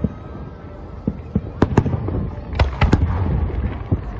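Fireworks display going off: about eight sharp bangs at irregular intervals, several close together in the middle, over a continuous low rumble.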